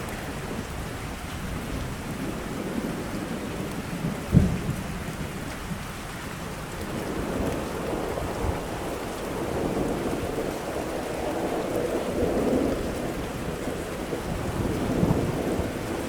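Steady rain with a thunderstorm: a sharp thunderclap about four seconds in, then low rolling rumbles that swell and fade over the rest of the stretch.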